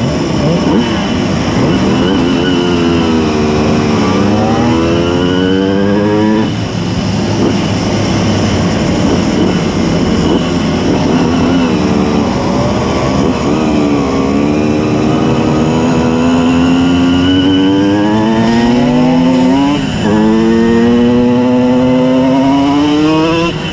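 Simson S51 moped's tuned 90 cc two-stroke reed-valve engine accelerating hard. The engine note climbs and then drops suddenly at each gear change, several times over.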